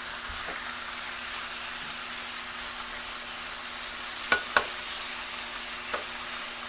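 Thinly sliced chicken breast and bacon strips sizzling on a flattop griddle heated to about 380°F, a steady frying hiss. A little over four seconds in there are two sharp clicks, and another near the end.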